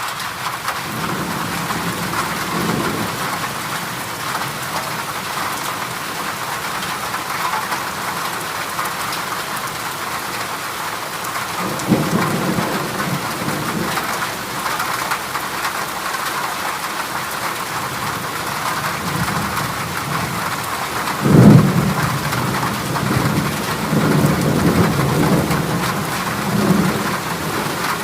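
Heavy rain drumming steadily on a corrugated zinc roof, with low rolls of thunder: one about twelve seconds in, the loudest clap about three-quarters of the way through, and more rumbling after it.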